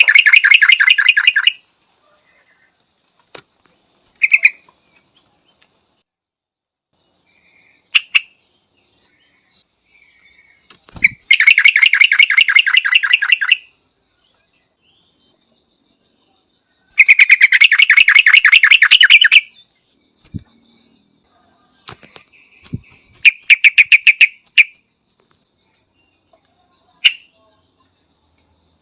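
Yellow-vented bulbul calling in four loud bursts of rapid chattering notes, each burst lasting about two seconds, with short single chirps between them.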